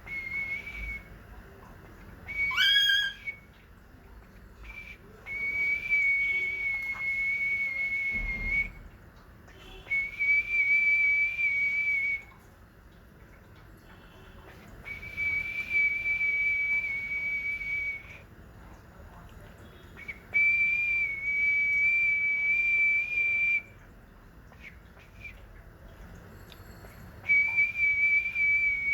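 Pet bird whistling: a quick rising whistle, then about five long, steady high notes of two to three seconds each, with short pauses between.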